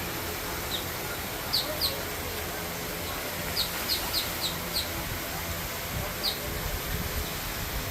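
Short, high bird chirps: a couple about a second and a half in, a quick run of about five near the middle, and a few more later, over a steady background hiss.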